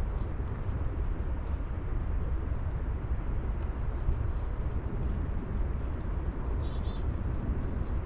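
Small birds giving a few short, high chirps scattered through, with a quick run of notes about six and a half seconds in, over a steady low rumble.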